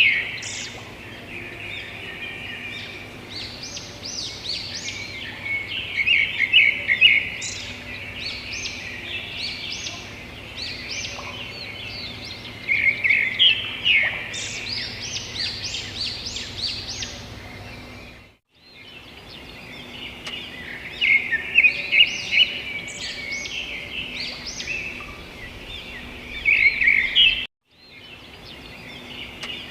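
Many birds chirping and singing together in a dense chorus of rapid, high notes and trills. The sound cuts out completely for a moment twice.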